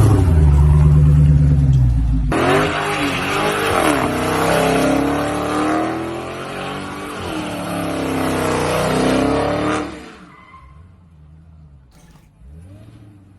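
A car engine revving hard, its pitch rising, then about eight seconds of tires screeching and squealing under power over the engine note. The sound cuts off about ten seconds in.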